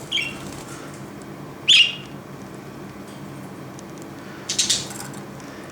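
Budgerigar chirping: a short chirp, then a louder, sharp chirp, and a harsher, scratchier call about four and a half seconds in, over a steady low hum.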